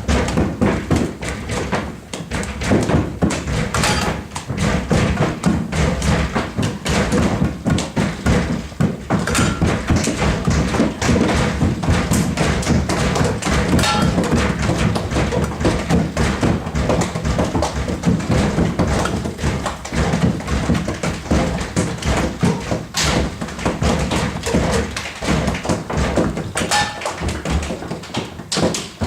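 A group of people stamping, shuffling and tapping their feet on a floor in a free improvisation: a dense, continuous mass of overlapping thumps and taps.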